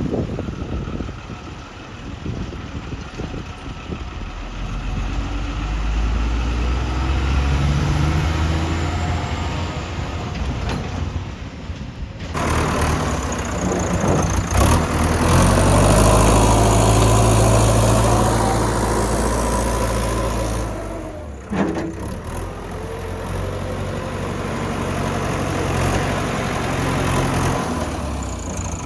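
Diesel engine of a JCB 3DX backhoe loader running while it works, its revs rising and falling under load. The sound changes abruptly about twelve seconds in, and the engine is loudest a few seconds after that.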